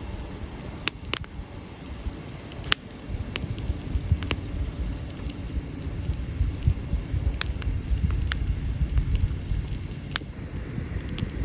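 Wood campfire crackling: irregular sharp pops and snaps from the burning logs over a steady low rumble.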